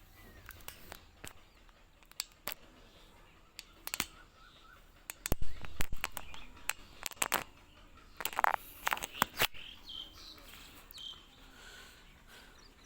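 Birds calling outdoors, with a harsh call about two-thirds of the way through and short high chirps after it, among scattered sharp clicks and knocks, the loudest about halfway through.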